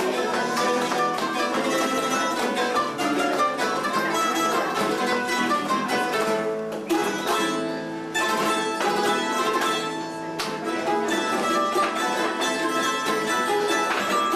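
Spanish plucked-string trio of bandurria, laúd and guitar playing a Cádiz carnival tune together: a lively melody of plucked notes over strummed chords.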